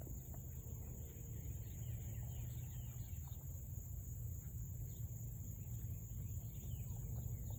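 Faint, scattered bird chirps over a steady low rumble of outdoor background noise.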